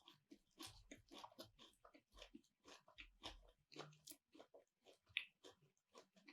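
Faint close-up chewing: soft, wet mouth clicks and crunches, about three or four a second, with one sharper click about five seconds in.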